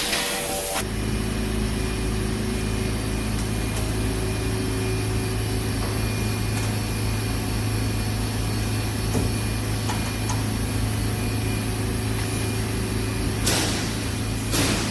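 A machine motor switches on about a second in and runs with a steady low hum and rumble. Near the end there are two short bursts of hiss.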